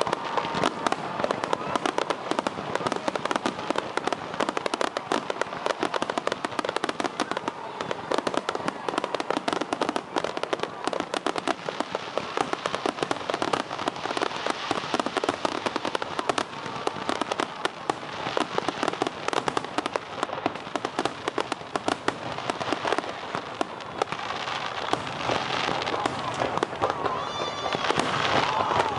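Aerial fireworks going off in a rapid, dense barrage of bangs and crackles.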